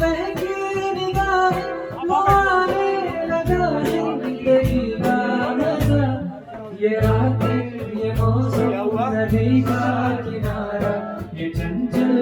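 Live music: a singer over guitar, bass and a steady percussive beat.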